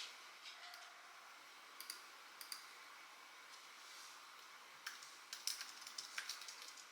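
Faint, scattered light clicks and taps, a few single ones and then a quick cluster near the end, over a quiet room.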